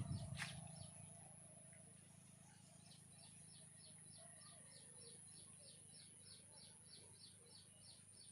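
Faint, evenly paced high chirping, about four chirps a second, starting about three seconds in over a low steady hum; a louder sound dies away in the first second.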